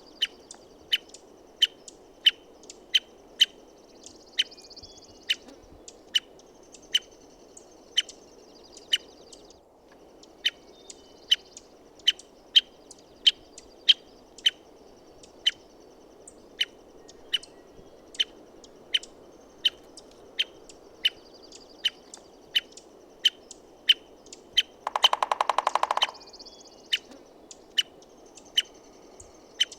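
American three-toed woodpecker giving a long series of sharp, short call notes, about two a second. About 25 seconds in it drums once, a rapid burst of knocks lasting about a second, louder than the calls.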